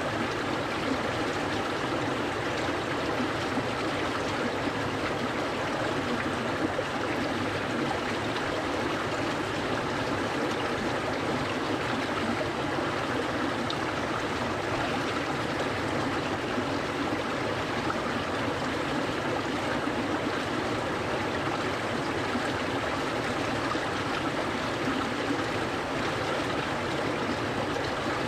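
Clear stream flowing, a steady, even rush of running water with no change in level.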